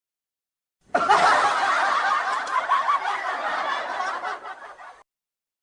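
Laughter from several people at once, like a laugh-track sound effect. It starts abruptly about a second in and fades out before stopping near the end.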